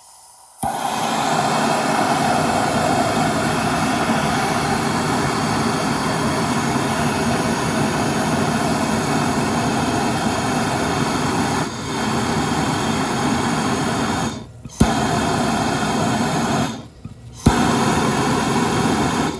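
Gas soldering torch flame blowing steadily while heating a copper pipe joint for sweat soldering. It cuts out briefly twice, each time coming back with a sharp click of the igniter.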